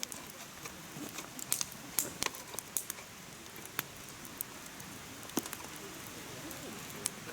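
Firewood burning in a mesh fire stand: irregular sharp pops and crackles over a soft steady hiss. The pops come thickly in the first half and only now and then after that.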